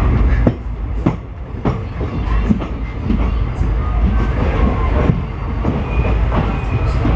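Passenger train coaches running along the track: a steady low rumble with sharp wheel clicks over rail joints every half second or so.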